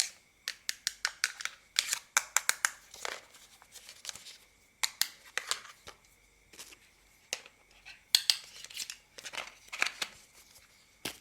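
Plastic toy parts being handled and taken apart, making crisp plastic clicks and clatters. There is a quick run of clicks in the first couple of seconds, then further clusters with short pauses between them.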